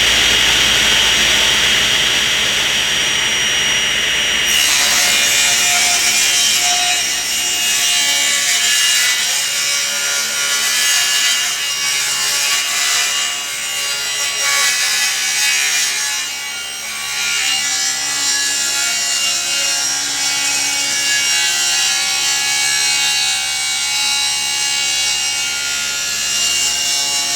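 Table saw ripping a long board: the blade runs up to speed with a steady whine, then bites into the wood about four seconds in and cuts on steadily for the rest of the pass.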